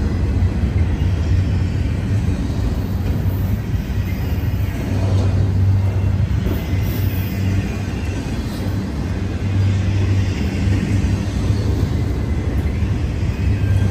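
Double-stack intermodal container freight train rolling past at close range: a loud, steady rumble of steel wheels on the rails.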